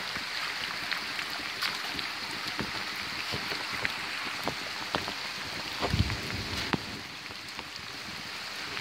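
Steady rain falling through woodland, mixed with the rushing of a flooded creek, with scattered sharp ticks. There is a dull thump about six seconds in.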